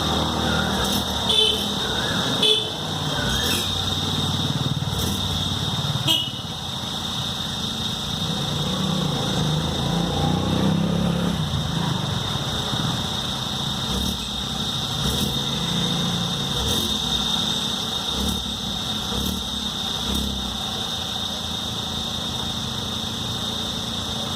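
Hyundai Venue 1.0-litre turbo-petrol three-cylinder engine running after a cold start, with a steady high-pitched tone over the engine note and a few sharp clicks in the first few seconds. This is the cold-start engine noise that Hyundai has been unable to fix.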